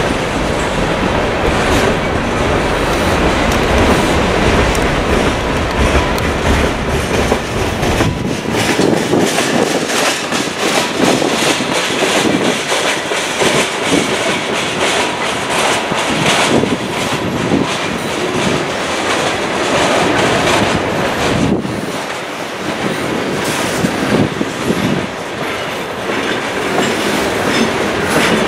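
Norfolk Southern freight train of GE diesel locomotives rolling slowly past on curved track. Engine rumble is strong at first and drops away about eight seconds in, leaving the steady clatter of wheels over rail joints and switches.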